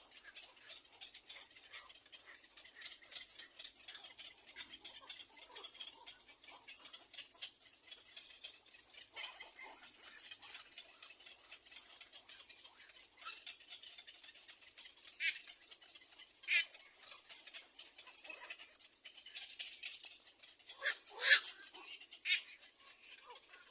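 Little egret nestlings in the nest: a constant patter of small clicks and rustles, with a few louder short calls, some sliding down in pitch, in the second half, the loudest near the end.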